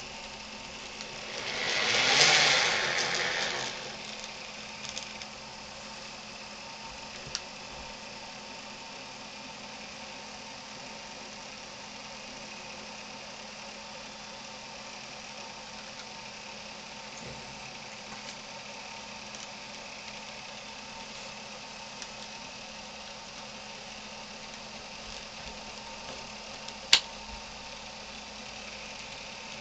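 N gauge DCC model locomotive running in the shed, giving a steady mechanical hum with a few fixed tones. A loud hiss swells and fades over about three seconds near the start, and there is a single sharp click near the end.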